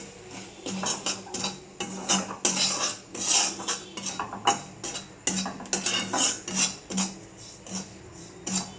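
Metal spatula scraping and stirring in a metal pan in quick, irregular strokes: semolina being stirred as it fries in oil.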